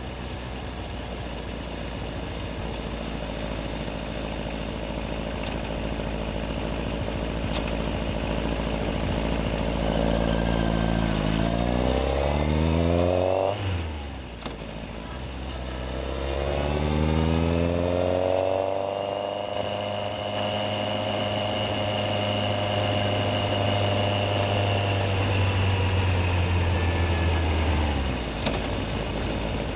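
Yamaha XJR1300's inline-four engine under way: steady at first, then climbing in pitch about ten seconds in, dropping at a gear change around the middle, climbing again and holding steady, then falling off shortly before the end.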